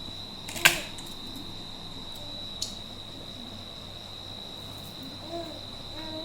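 A cricket trilling on one steady high note throughout. A sharp click about a second in is the loudest sound, with a smaller click a couple of seconds later.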